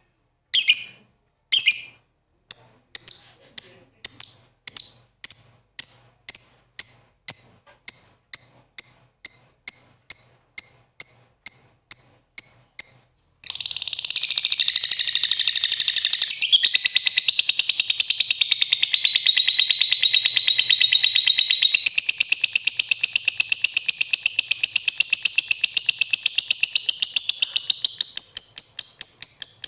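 Lovebirds chirping. Sharp, high chirps repeat faster and faster, from under one a second to several a second, then about halfway through merge into a continuous shrill twittering.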